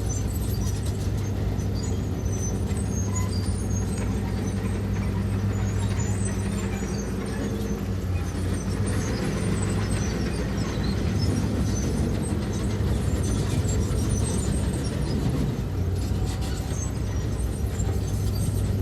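Heavy construction machinery's diesel engine running steadily, a constant low drone with no change in pitch.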